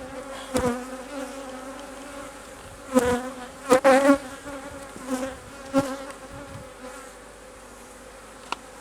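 Honey bees buzzing steadily around an opened hive, the buzz swelling louder several times as bees fly close past, with a few sharp clicks. The colony is disturbed by the inspection.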